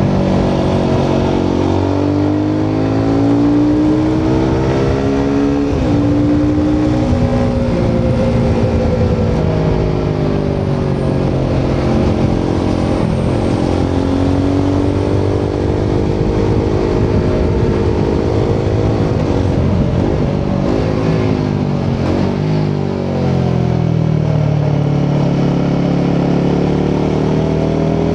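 Royal Enfield Himalayan 450's 452cc single-cylinder Sherpa engine and exhaust under way. The engine note climbs and falls several times as the rider accelerates, shifts and eases off, with a short lull about two-thirds of the way through before it pulls up again.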